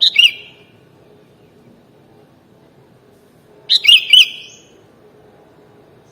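Sooty-headed bulbul (kutilang) calling: a short burst of sharp chirping notes right at the start, then a longer phrase of three or four quick notes about four seconds in.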